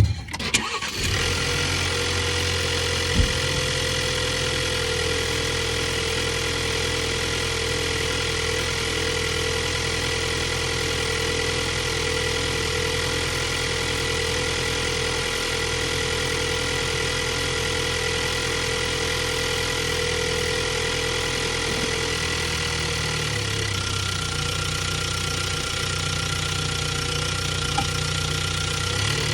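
2022 Ford Bronco's 2.3-litre turbocharged four-cylinder engine starting, then idling steadily. Near the end the idle note shifts to a different pitch and stays there.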